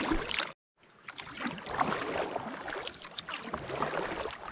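Kayak paddle strokes splashing and dripping water, with irregular small splashes over a running-water background. The sound drops out completely for a moment about half a second in.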